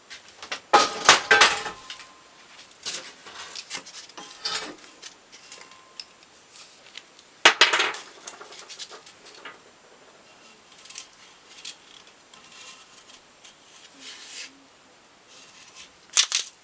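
Metal parts and tools clattering and knocking as they are handled, with sharp clatters about a second in, around seven seconds in and near the end, and light clicks between.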